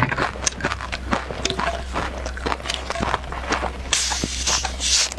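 Close-miked crunching and chewing of crispy snacks, a rapid run of crackly bites. About four seconds in, a plastic drink bottle's screw cap is twisted open with a high hiss.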